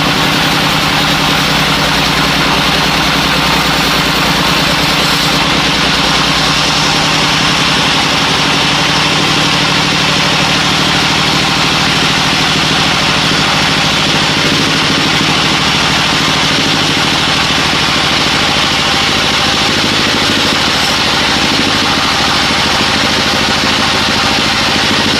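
Engine-driven sawmill machinery running steadily: a constant engine tone under a loud, even hiss.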